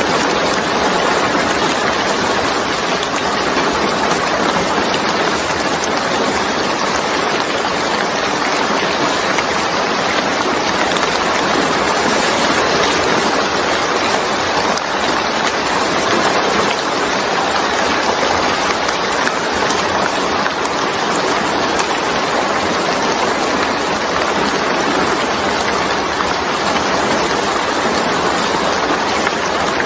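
Steady heavy rain falling, a dense even hiss of drops with no single drop standing out.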